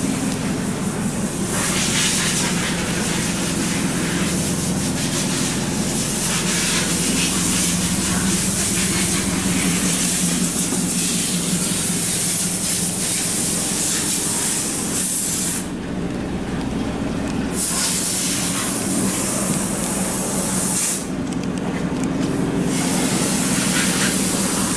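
Steady idling of the Isuzu Elf's 4JJ1 2,990 cc turbo-diesel, with a broad hiss over it that drops away twice for a second or two.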